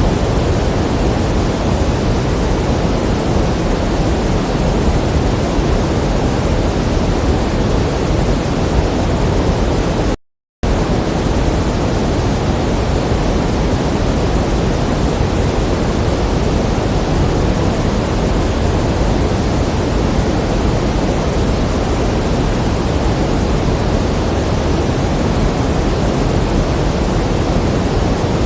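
Steady pink noise: an even hiss, fuller in the low end than the high. About ten seconds in it cuts out completely for about a third of a second, then resumes unchanged.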